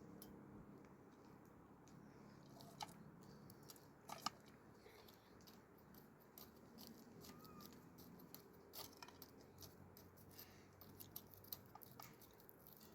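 Near silence with faint, scattered small clicks and taps, two sharper ones about three and four seconds in.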